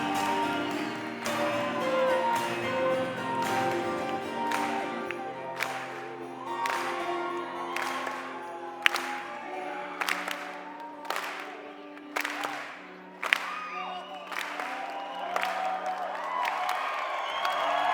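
A live band's final held chords of an acoustic song ring out while a concert audience claps, sings and cheers. The crowd noise swells near the end.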